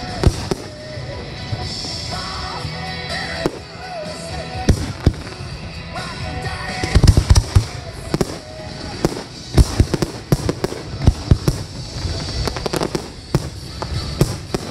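Aerial fireworks shells bursting in rapid succession, sharp booming reports coming thickest about seven seconds in and again through the second half, with music playing underneath.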